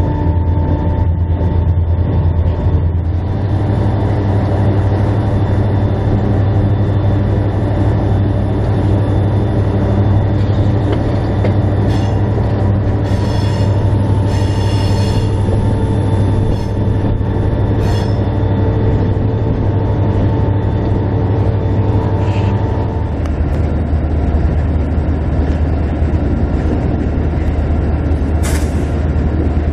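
Diesel locomotive running steadily along the track, its engine a constant low drone that shifts note twice. Wheel flanges squeal briefly on the rails a few times in the middle.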